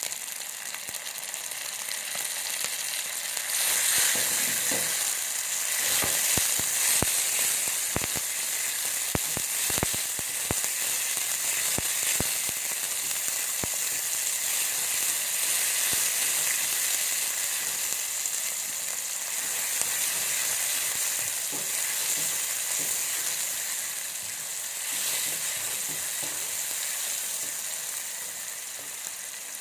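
Chopped onion sizzling in hot oil in a kadai, the sizzle growing louder about four seconds in. A spatula knocks against the pan a string of times while stirring, then the steady sizzle carries on.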